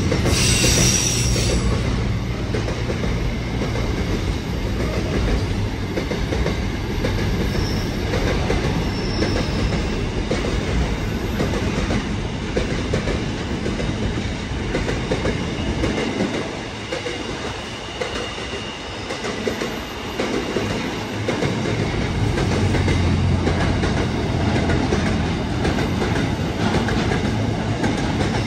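Container freight train wagons rolling past close by: a steady rumble and clatter of steel wheels on the rails, with brief faint wheel squeals now and then. The low rumble eases for a few seconds past the middle, then builds again.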